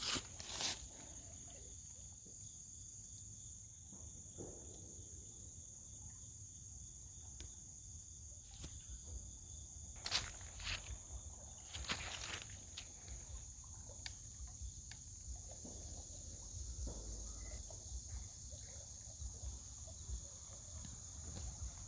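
Insects trilling in a steady, high-pitched drone, with a few scuffs or steps in the brush about halfway through.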